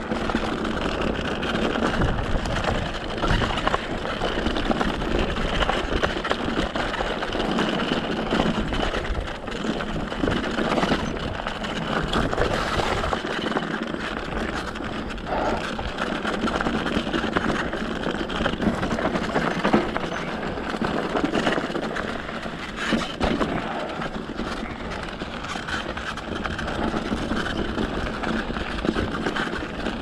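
Mountain bike moving along a dirt trail with no motor running: steady tyre and wind noise with frequent small rattles and crunches.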